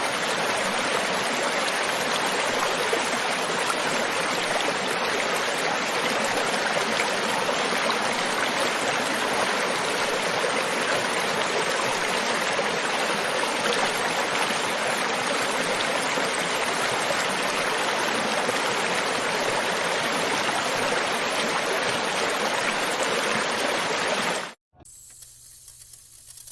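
River water flowing over rocks, a steady, even rushing. It cuts off abruptly near the end, leaving only a much fainter background.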